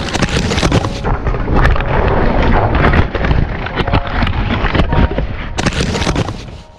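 Heavy wind buffeting the microphone in the rain: a loud rumbling rush with many crackles of raindrops striking the camera. It fades away near the end.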